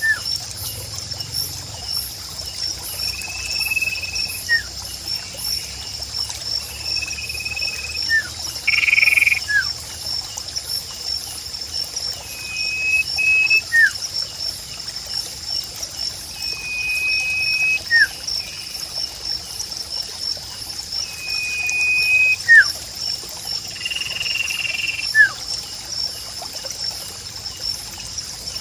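Nature ambience: a steady, fast-pulsing high chirr runs throughout. Every four to five seconds comes a repeated animal call, a held high note followed by a short downward note. A water trickle sits faintly underneath.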